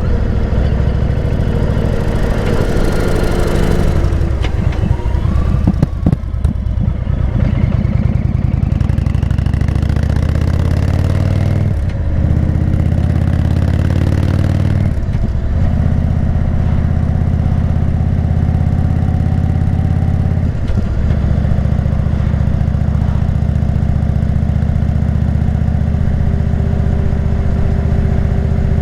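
Indian V-twin motorcycle engine running under way, heard from the bike. Its note is uneven for the first few seconds, then breaks off briefly three times, about 12, 15 and 20 seconds in, as gears are changed, and settles into a steady pull after each break.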